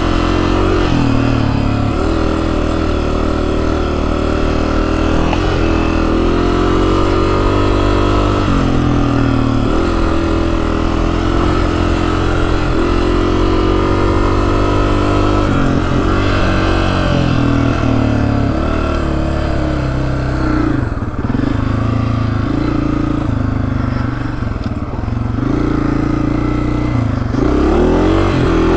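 2024 Honda CRF250F single-cylinder four-stroke engine under way. Its revs climb again and again in rising sweeps of a few seconds each, then run lower and more unevenly in the second half.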